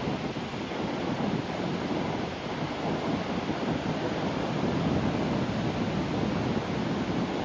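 Sea waves breaking and washing on a shore: a steady, rumbling wash of surf that swells a little about five seconds in.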